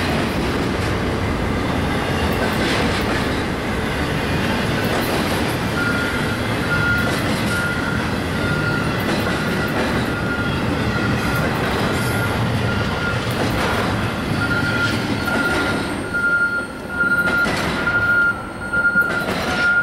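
Empty double-stack container train rolling past, a steady rumble of wheels on rail. From about six seconds in, a back-up alarm beeps steadily over it. Near the end the rumble breaks into separate wheel clanks as the last cars go by.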